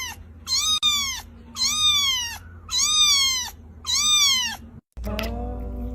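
A cat meowing four times, about once a second, each short high call rising and then falling in pitch. Near the end the meows stop and music begins.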